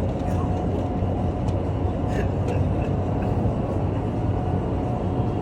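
Steady rush of air and low rumble from an indoor skydiving vertical wind tunnel in operation, with a faint steady tone above it.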